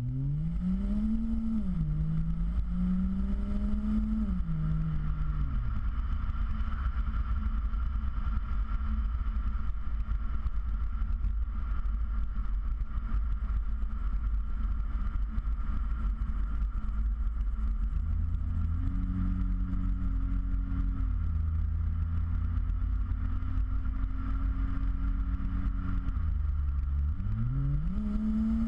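Ford Fusion Sport's twin-turbo V6 exhaust, through a Magnaflow axle-back, accelerating while driving. The pitch climbs twice in the first few seconds with a drop in between, then settles into a steady low rumble. About two-thirds of the way in it holds a higher steady note, dips briefly near the end, and climbs again.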